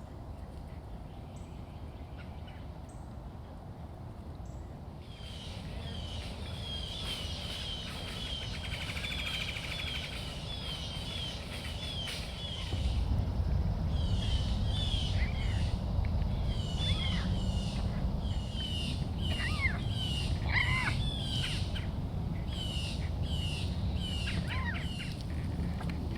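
A bobcat chirping excitedly in anticipation of food: rapid high-pitched chirps, about two a second. About halfway through these give way to more varied chirps and calls that slide downward in pitch, over a low rumble.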